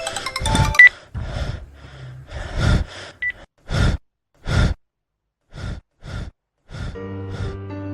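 A person gasping for breath in short, sharp gasps that come further and further apart and then stop. Soft music comes in near the end.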